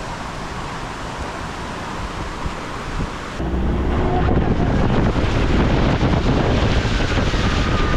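Rushing, splashing water with wind buffeting the microphone, growing abruptly louder and heavier about three and a half seconds in.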